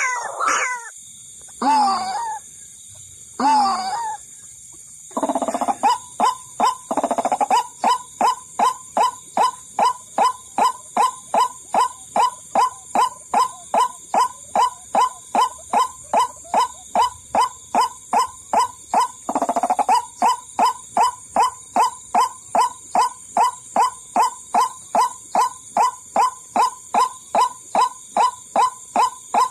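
White-breasted waterhen calls: a few separate calls at first, then from about five seconds in a long, even run of repeated pulsing notes at about two and a half a second, pausing briefly once before carrying on. This is a lure call for drawing in waterhens.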